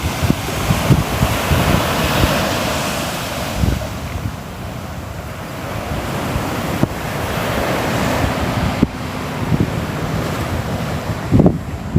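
Ocean surf: waves breaking and washing ashore, swelling and easing with a lull about four to five seconds in. Wind buffets the microphone with low rumbling gusts that grow stronger near the end.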